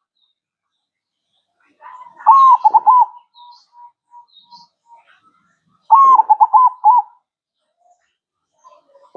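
Zebra dove (perkutut) singing its cooing song twice. Each phrase is a drawn-out note followed by a quick run of short coos, with a few soft single coos between the phrases.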